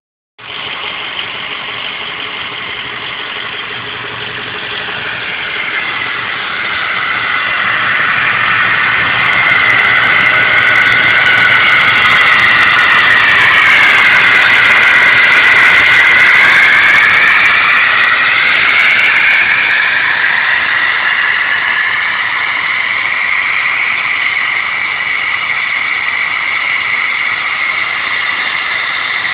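Diesel truck engine idling while it warms up, with a loud high-pitched whine over the running. The whine grows louder over the first ten seconds, dips in pitch about halfway through, then climbs back and settles.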